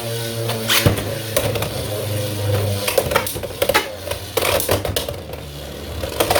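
Two Beyblade X spinning tops, Hells Scythe and Rhino Horn, whirring in the plastic stadium and clashing again and again. Sharp clacks of hard hits come at irregular intervals, the loudest about a second in.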